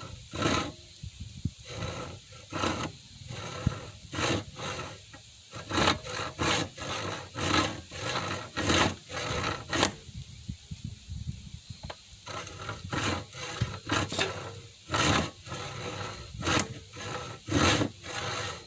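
Hand saw cutting through a wooden rail in steady back-and-forth rasping strokes, about one to two a second, with a short pause about halfway through before the sawing resumes.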